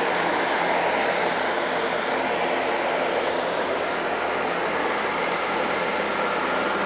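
Chevrolet Corvette C5's 5.7-litre V8 idling steadily, with a steady hiss over it.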